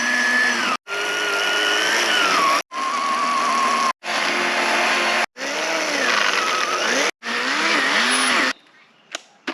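Small chainsaw cutting into a fallen log nearly twice as thick as it is meant for, its engine pitch sagging and recovering under load as it struggles. The sound breaks off suddenly several times and stops about 8.5 seconds in.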